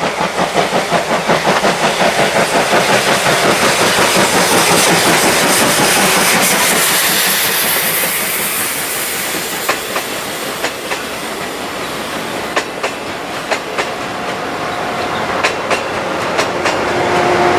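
SL Yamaguchi steam-hauled train running: a quick pulsing exhaust beat in the first few seconds, then steady rolling noise, with wheels clicking over rail joints from about halfway.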